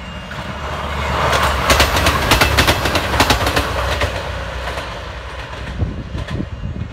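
Class 158 diesel multiple unit passing close by: a low engine and running rumble builds, with a quick run of wheel clicks over the rail joints about two to four seconds in, then fades as the train moves away.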